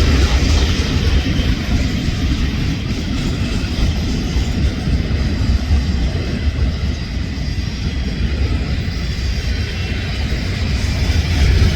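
Freight train running by: a steady deep rumble with a broad rushing noise over it.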